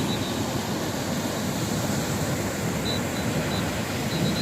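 Sea surf washing onto a beach: a steady rushing noise.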